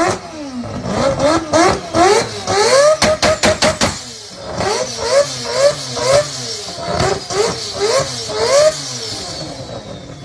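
Car engine revved in quick repeated blips, its pitch rising and falling again and again, with a rapid run of sharp pops about three seconds in.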